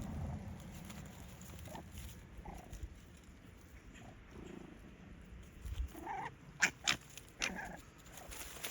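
Young canid giving a few short, sharp squeaks and yelps about six to seven and a half seconds in, over a faint low rumble.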